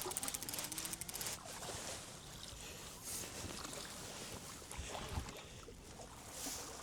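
A fishing reel ratcheting in a rapid run of clicks for about the first second and a half as a channel catfish is brought in, then water and boat noise.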